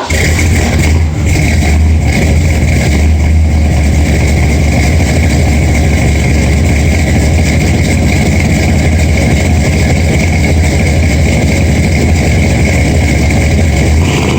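Ford 429 big-block V8 with an Edelbrock intake and Edelbrock Performer RPM cam, running steadily at idle while still cold after sitting a month in freezing weather, with a deep exhaust rumble.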